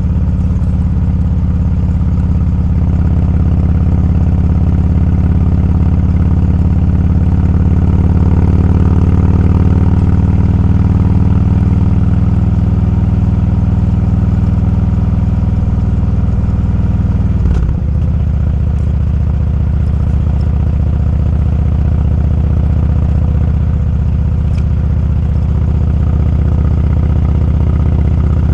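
Motorcycle engine running steadily while riding, a loud low drone. About two-thirds through the note breaks briefly and settles a little lower.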